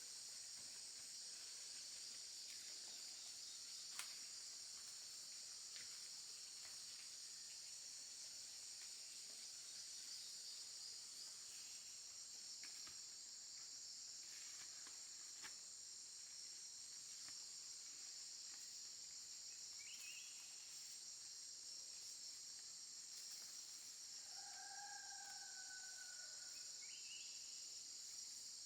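Faint, steady high-pitched chorus of insects, with a rooster crowing once near the end and a few short bird chirps.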